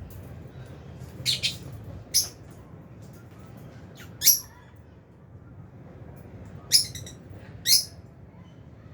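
Lovebirds giving short, shrill chirping calls: about six separate calls, one quick pair then single calls a second or two apart, over a faint low steady background.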